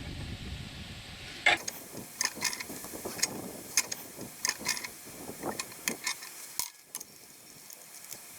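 Irregular sharp metallic clicks and clanks, about three a second, from handling the rigging of a pickup-truck crane lifting a small generator. They start as a steady hiss cuts off about a second and a half in, and stop near the end.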